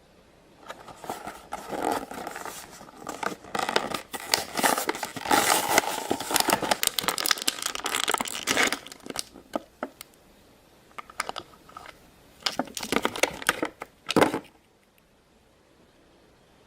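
Stiff plastic packaging crinkling and crackling as it is handled, with tearing and scraping sounds. It comes in a long dense stretch starting about a second in, then a few sharp clicks, then a second shorter burst that cuts off near the end.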